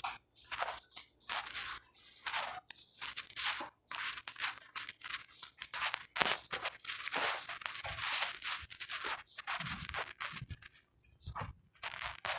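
Automatic rotary fly ash brick making machine at work: a run of short, irregular noisy bursts, with a few low thumps late on.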